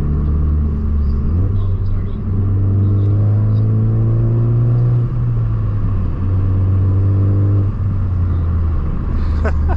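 Straight-piped Ford Focus ST (muffler and resonator deleted) with its turbocharged four-cylinder, heard from inside the cabin under acceleration. The exhaust note rises through one gear, drops at an upshift about five seconds in, rises again and eases off near the end.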